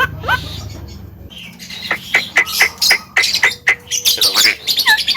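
Javan myna calling: a few rising whistles, a brief pause, then a rapid run of harsh squawks and clicks from about two seconds in, with short falling whistles near the end.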